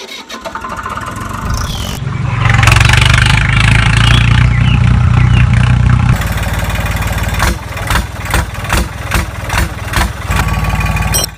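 Small engine of a miniature model water pump starting up, running loud and steady with a low hum, then dropping after about six seconds into an uneven, knocking run of clicks and pulses.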